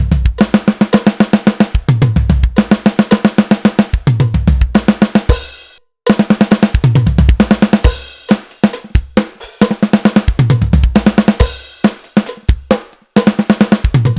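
Acoustic drum kit playing a steady kick-and-snare groove broken by fills, dense runs of single strokes across the snare and toms. The playing stops briefly about six seconds in, then starts again.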